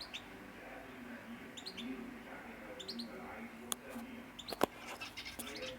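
Pet canaries giving short, high chirps every second or so, with denser chirping near the end. Two sharp clicks come a little past the middle.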